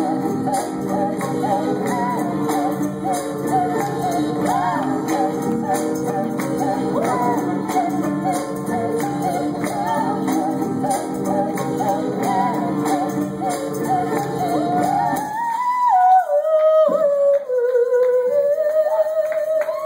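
Live song with layered singing over guitar and tambourine. About three quarters through the full band cuts out, leaving a single gliding, held note.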